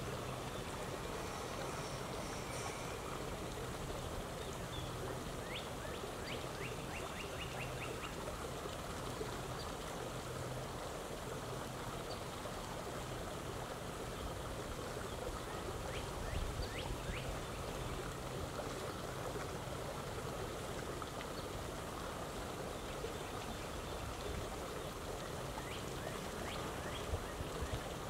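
Small birds chirping over a steady outdoor rushing background: a quick run of about seven high chirps after six seconds or so, then short bursts of a few chirps about halfway through and again near the end.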